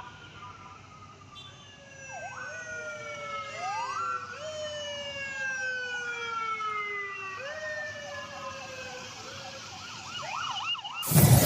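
Police patrol car siren: from about two seconds in, repeated tones that each rise sharply and then fall slowly, several overlapping, turning to a quicker warble near the end. A loud sudden burst of sound cuts in just before the end.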